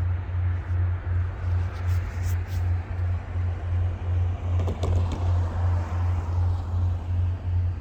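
SD40-2 diesel locomotive engine running with a low, steady throb that pulses about three times a second, with a few sharp clicks about five seconds in.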